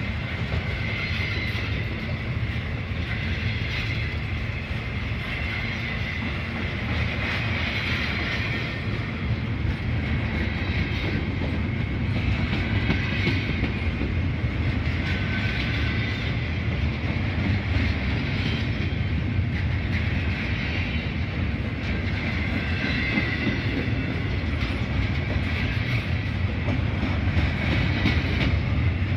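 Norfolk Southern freight train's double-stack container cars and boxcars rolling past close by: a steady rumble and clatter of steel wheels on the rails, with a few brief high wheel squeals.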